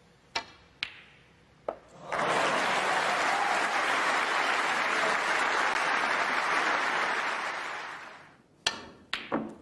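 Snooker balls clicking: three sharp knocks of cue tip on cue ball and ball on ball, then an arena audience applauding for about six seconds before the applause fades away. Near the end comes another quick run of ball clicks.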